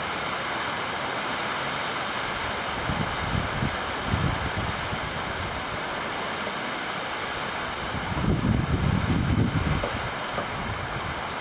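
Heavy rain pouring down in a steady hiss, with gusts of wind rumbling on the microphone briefly about three seconds in and more strongly about eight seconds in.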